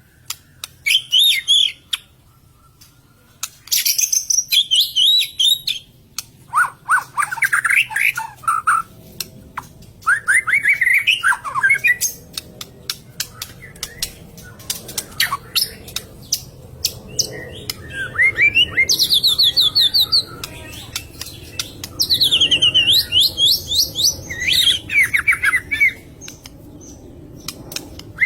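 White-rumped shama (murai batu) singing in loud bursts of fast repeated, sweeping notes, with runs of sharp clicks between phrases. This is a fighter-type bird in an agitated, fired-up state.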